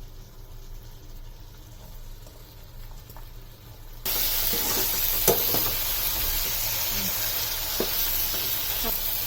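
A faint low hum for about four seconds, then chicken in spice masala suddenly sizzling loudly in the pan as it is stirred, with a few knocks of the stirring utensil against the pan.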